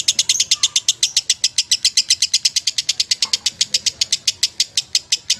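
Lovebird singing a long, unbroken chatter of sharp high chirps at about eight a second: the drawn-out 'ngekek' song that contest lovebirds are kept for.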